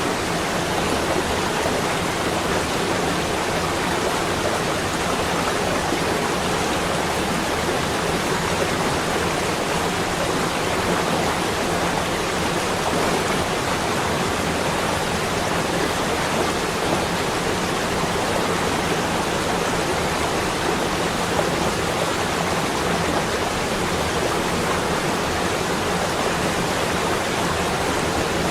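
A steady, even rushing hiss with no separate events.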